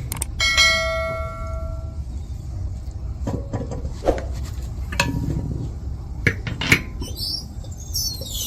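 Metal parts clanking in a workshop: one piece is struck and rings clearly for about a second and a half, followed by a handful of separate sharp knocks over a steady low hum.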